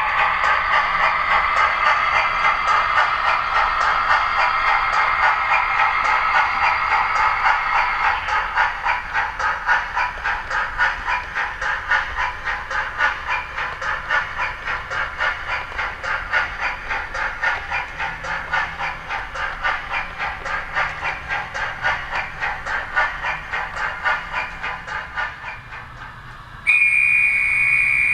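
OO gauge model steam locomotive's sound effects: a steady steam hiss of the working cylinder drains, turning into fast, even exhaust chuffs that fade away. A short steam whistle blows near the end.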